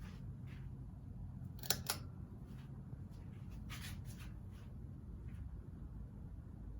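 Craftmade ceiling fan motor running with a steady low hum, with two sharp clicks in quick succession a little under two seconds in and a few fainter clicks around four seconds in.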